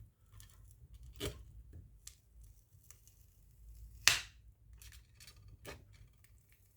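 Short scrapes and clicks of a thin metal pry tool working a glued-in battery out of a Samsung Galaxy A21s, the loudest about four seconds in.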